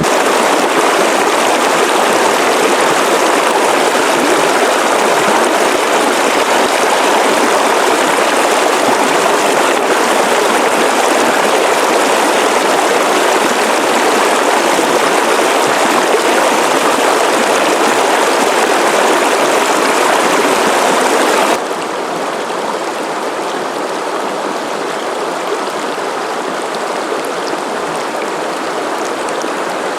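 River water rushing steadily over rocks, a constant loud flowing hiss; it drops abruptly quieter about two-thirds of the way through and carries on.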